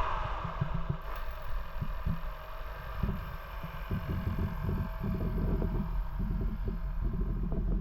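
Honda 1.5L turbocharged four-cylinder engine idling, with a faint steady tone and irregular low bumps underneath.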